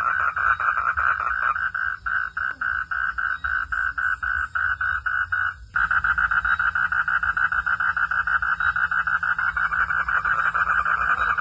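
A night chorus of frogs: rapid, repeated pulsing calls in a steady high-pitched band. About a second and a half in, the chorus thins to a slower pulse of about four or five a second, and just before the midpoint it abruptly turns dense and louder again.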